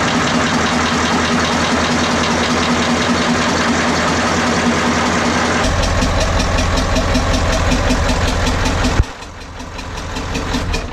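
Caterpillar 3208 V8 marine diesel running with a knock, which a mechanic puts down to faulty injectors. The sound changes about halfway through, then cuts off sharply about nine seconds in and winds down.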